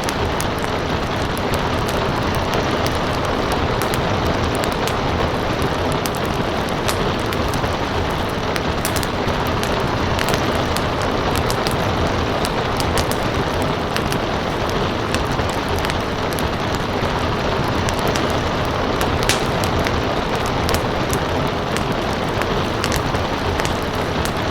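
Wood fire crackling and popping over a steady wash of rain. The crackles are many sharp snaps, scattered unevenly, one a little louder about nineteen seconds in.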